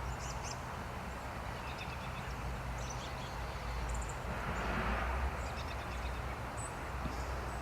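Steady outdoor background noise with a low hum, a slight swell about five seconds in, and a few faint, short high chirps scattered through it.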